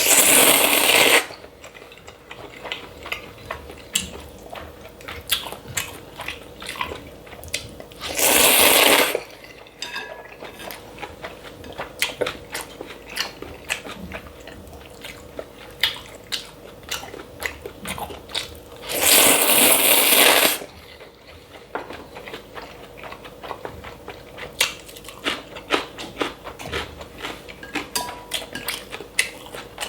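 Close-miked mukbang eating of cold buckwheat noodles: three loud slurps of noodles, each about a second long, near the start, about eight seconds in and about twenty seconds in. In between come steady chewing and small crunching clicks.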